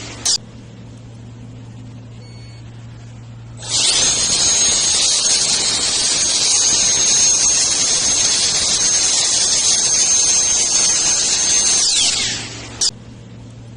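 Handheld brushless turbo jet blower running at high speed: a high whine over a loud rush of air. Right at the start a previous run finishes winding down and clicks off, leaving a low hum. About four seconds in it spins up quickly and holds steady for about eight seconds, then winds down and clicks off near the end.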